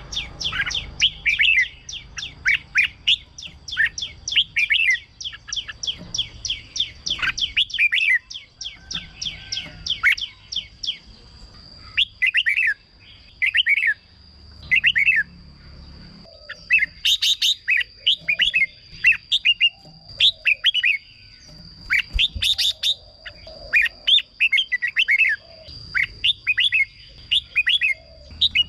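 Red-whiskered bulbul song: short, quick phrases of bright whistled notes that follow one another with brief pauses, over a thin steady high tone.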